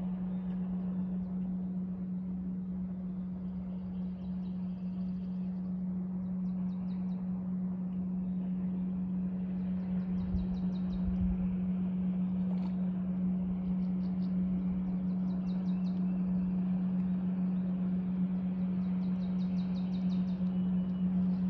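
A bird's rapid, high trill repeats about every four seconds over a steady low hum.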